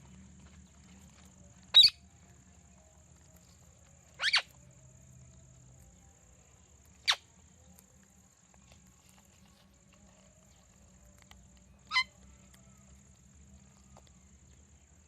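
Pet parrots giving short, sharp screeching calls, four of them spaced a few seconds apart, the second a quick double call.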